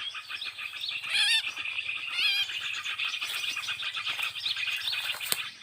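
Dense chorus of many small birds chirping rapidly and continuously, with two louder warbling calls about one and two seconds in; the chatter cuts off suddenly near the end.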